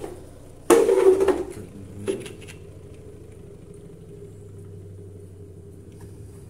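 Twin-tub washing machine drain pump being taken apart by hand: a loud clatter about a second in and a click soon after, then a faint steady hum.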